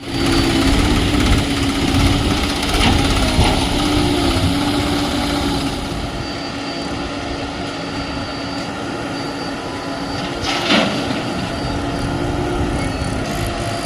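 Diesel engine of a JCB 3DX backhoe loader running under load, its pitch wavering a little as it revs, louder for the first several seconds. A single sharp knock comes about ten and a half seconds in.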